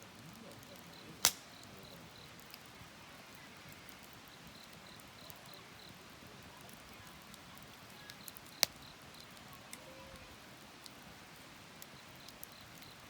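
Wood fire crackling with scattered small ticks and two sharp pops, one about a second in and one after about eight and a half seconds.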